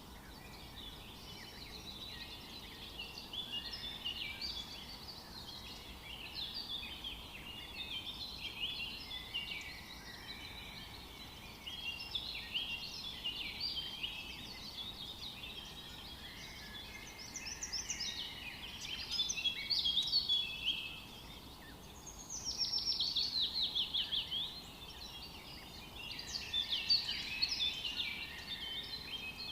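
Several songbirds singing and chirping at once, a dense mix of overlapping high chirps and short phrases. About three quarters of the way through, one bird gives a fast trill that falls in pitch.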